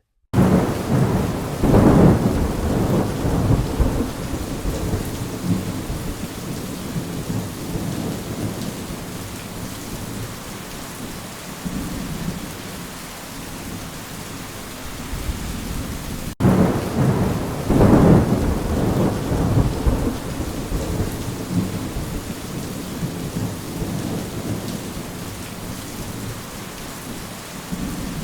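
Steady rain with two long rolls of thunder, one near the start and one just past halfway, each swelling and then fading out over several seconds. There is a momentary break in the sound just before the second roll.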